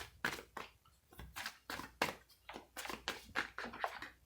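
Tarot cards being shuffled by hand: a run of short, crisp card slaps, about three or four a second.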